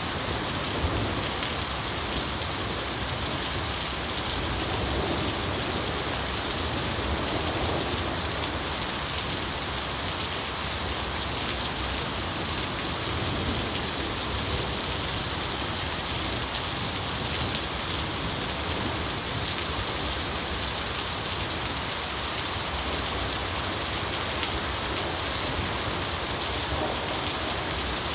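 Steady rain falling, an even hiss with no break or thunderclap.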